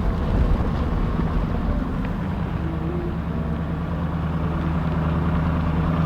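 Ford F-250 Super Duty pickup's engine running steadily, a low even hum.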